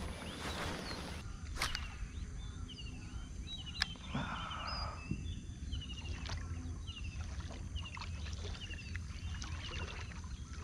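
Outdoor ambience of birds calling again and again in short, falling chirps, over a steady low rumble, with a few faint clicks.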